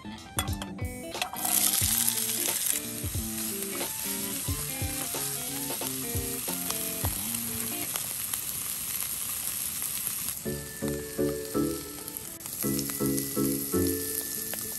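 Chopped onion, green pepper and sausage hit hot oil in a frying pan about a second in, with a sudden loud sizzle that then carries on steadily as they are stir-fried.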